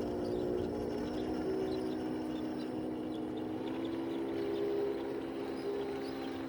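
Radio-controlled M46 Pershing tank driving, its electric drive motors and gearboxes giving a steady whine of several tones that shift a little in pitch as it moves.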